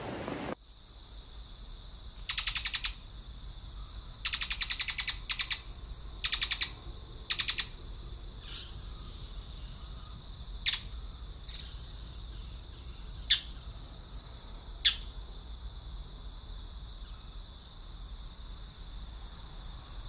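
Birds calling. A run of five loud, harsh, buzzy calls in the first eight seconds is followed by three short, sharp calls, all over a steady high-pitched whine.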